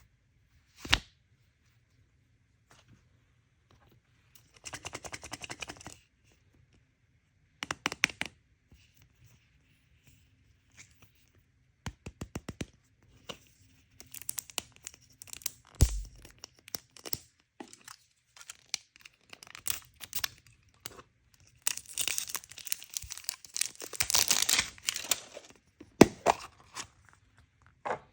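Toy packaging being torn open and crinkled by hand: separate rips and crinkles with sharp clicks, the longest and loudest tearing near the end.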